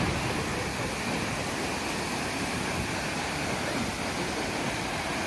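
Goðafoss waterfall, a steady full rush of falling water with no change.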